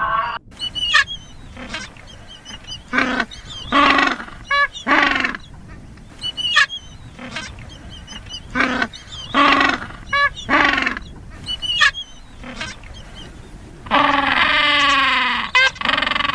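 Birds calling: a run of short pitched calls about once a second, with higher thin calls between them and one longer call that falls in pitch near the end.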